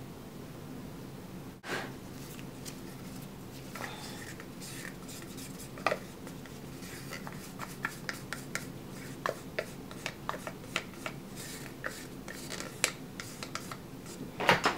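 Light clicks and scrapes of a utensil against a container as soap colourant is mixed, coming thicker and faster in the second half, over a steady low hum.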